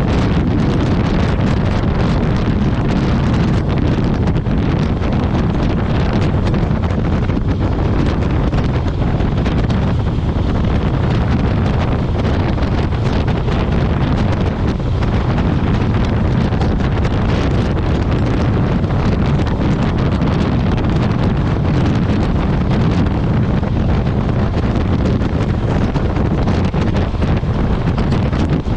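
Steady wind rushing over the microphone of a motorcycle at highway speed, with the bike's running and road noise beneath it.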